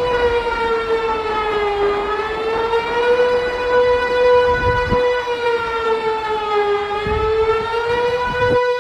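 A siren sounding one loud, held tone that sags a little in pitch and climbs back twice, over a rumbling background. The tone breaks off for an instant just before the end.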